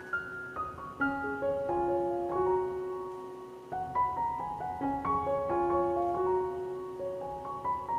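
Background music: a solo piano playing a slow melody of held notes, a new note about every half second.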